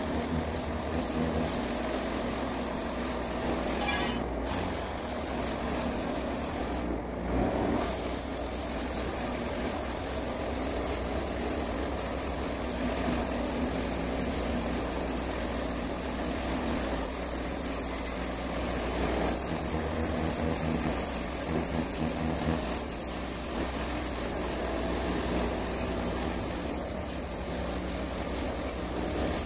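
Heavy machinery running steadily, a continuous engine-like drone under a broad hiss.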